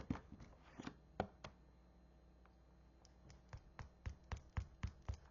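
Small, sharp plastic clicks and taps from handling acrylic paint markers: a few scattered clicks, then a quick regular run of about four or five a second over the last couple of seconds.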